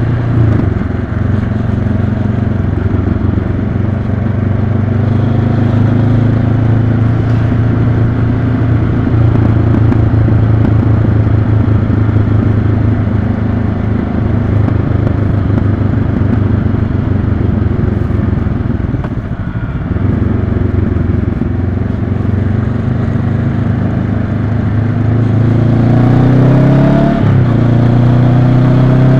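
Honda CB500X's 471 cc parallel-twin engine running steadily under the rider, heard from on the bike. Near the end the engine pitch rises and then drops sharply.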